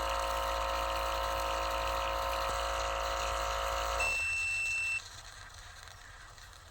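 A steady machine hum with running water that stops about four seconds in, followed by a single high beep lasting about a second and then faint background noise.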